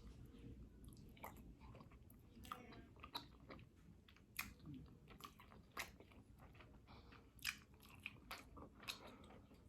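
Faint, close-miked eating sounds: scattered crisp clicks and crunches with soft chewing as crab legs from a seafood boil are eaten.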